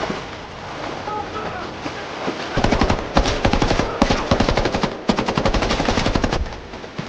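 Automatic gunfire in two long, rapid strings of shots, the second stopping abruptly about a second before the end.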